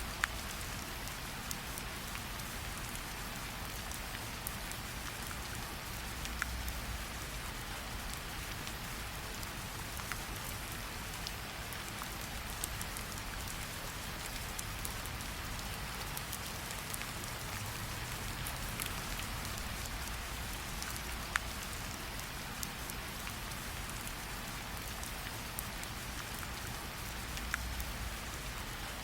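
Steady rain falling, with scattered sharp crackles and pops from a campfire.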